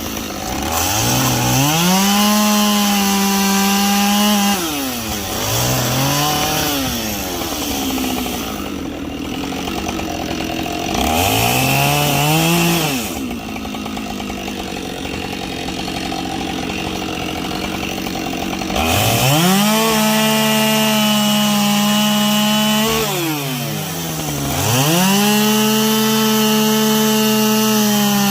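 Gasoline chainsaw bucking logs: the engine revs up to full throttle and drops back several times. It idles for several seconds in the middle, and in the later cuts its pitch sags under load before it revs back up.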